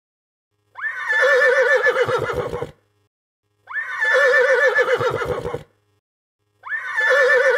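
Horse whinnying three times, the same call repeated about three seconds apart. Each is a high, quavering neigh that sweeps up at the start, wavers, and trails off into low pulsing.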